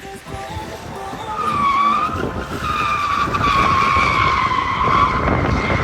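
Car tyres squealing in a hard skid. A high screech rises in about a second and a half in, dips, then holds loud and steady over a rumbling vehicle noise.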